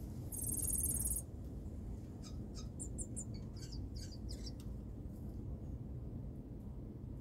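Grassquit calling: a brief, high buzzy trill about half a second in, then a run of short, high chirps over the next couple of seconds.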